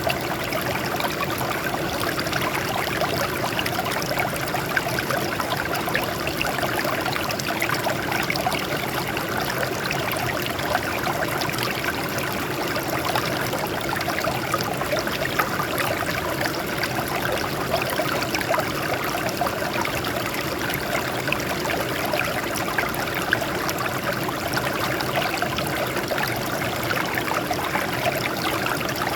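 Water flowing and trickling over rocks in a small stream, a steady splashing babble.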